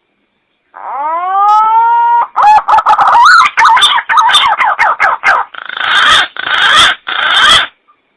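Green pigeon (punai) song played as a hunter's lure call: a whistled note that rises and then holds, followed by a run of quick warbling notes that bend up and down, ending in three harsher, noisier notes.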